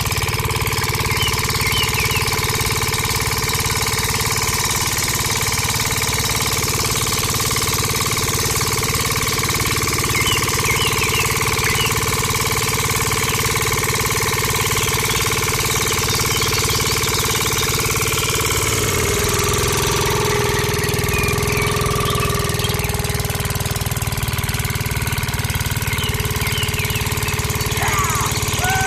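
Engine running steadily with a fast knocking beat, its tone shifting about two-thirds of the way through. A few faint high chirps sound over it.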